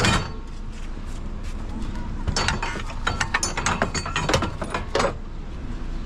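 Scrap metal being handled and loaded onto a trailer: a string of sharp metallic clanks, clicks and rattles in clusters. A loud knock comes at the start, then a dense run of clinks in the middle and one more knock near the end.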